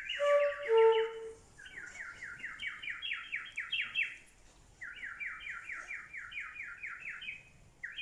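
A nightingale singing: three trilled phrases of rapid repeated notes, each one to three seconds long, with short gaps between them. In the first second the trill is joined by a few low, pure whistled notes.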